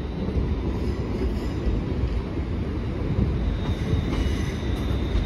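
ScotRail electric multiple unit rolling slowly past over the station tracks, its wheels and bogies giving a steady low rumble, with a faint high whine that grows near the end.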